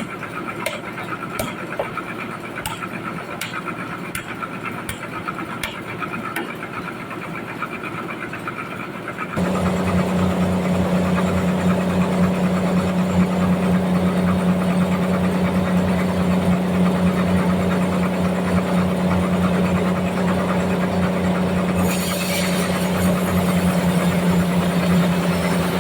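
Sawmill machinery running with a steady mechanical hum and a faint click about once a second. About nine seconds in it changes suddenly to a louder, lower engine-like drone, and a hiss joins near the end.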